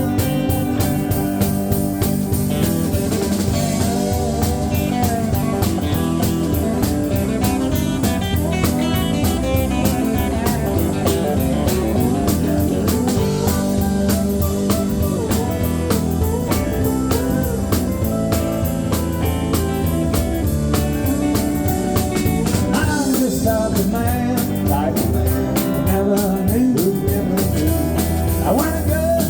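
Live country-rock band playing an instrumental passage between sung verses: guitar lines over a steady drum-kit beat and bass.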